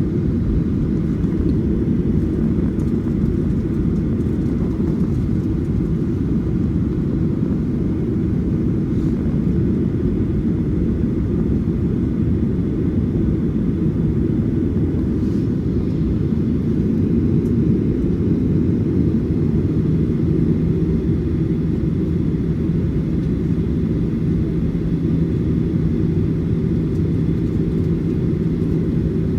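Cabin noise inside a Boeing 737-800: a steady low rumble of the engines and airframe, with a steady low hum joining about two-thirds of the way through.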